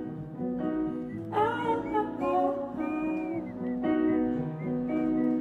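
Live acoustic pop song in a gap between sung lines: sustained guitar chords changing every few seconds, with a brief wordless vocal line in the middle.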